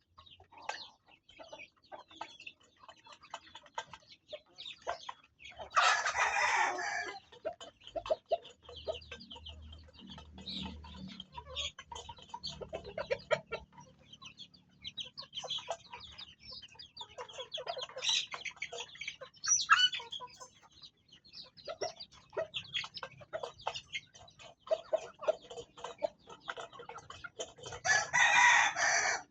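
Farm chickens clucking and calling, with two louder, longer calls, one about six seconds in and one near the end.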